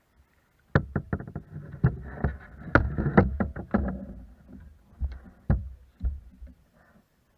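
A rapid series of knocks and thumps on a kayak, with rumbling handling noise under them. They start about a second in, come thick for a few seconds, then thin out to a few single knocks.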